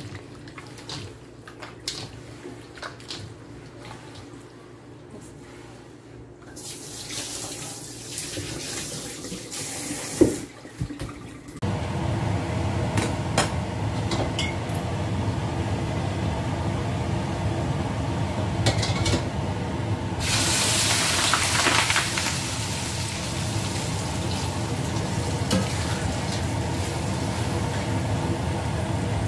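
Egg-coated tofu cubes squished by hand in a steel bowl. A sharp click about ten seconds in, then a steady rushing noise as a wok of oil heats on a gas burner. Around twenty seconds a louder sizzling starts as the tofu goes into the hot oil and is stirred.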